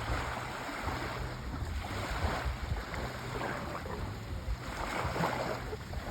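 Sea waves breaking and washing on a shore. The surf swells and falls back in about three surges over a steady low rumble.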